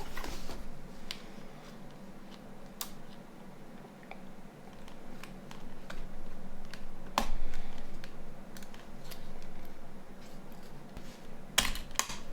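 Scattered small clicks and taps of plastic and metal phone parts being handled and pried apart during disassembly of a Nokia 9210 communicator, with a quick cluster of clicks near the end.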